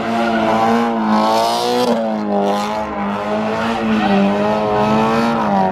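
A car engine held at high revs, its pitch wavering up and down, over a rough hiss from tyres spinning on the pavement, as in a burnout or donut.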